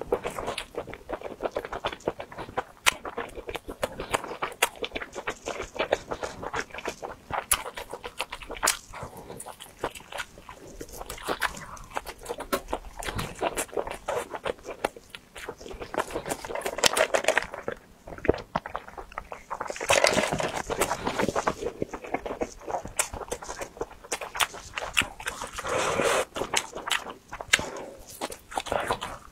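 Close-up chewing and crunching of crispy deep-fried food eaten off skewers, irregular crackly mouth clicks throughout, with louder bursts of crunching at a few points.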